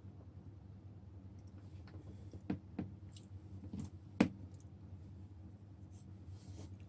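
A few light clicks and taps, the sharpest about four seconds in, over a steady low hum.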